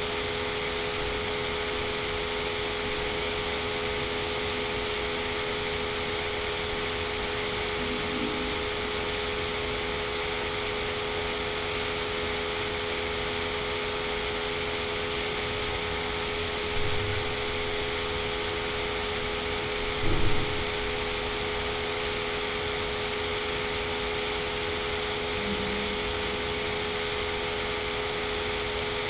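Steady background hum and hiss, with two brief low thumps a few seconds apart past the middle.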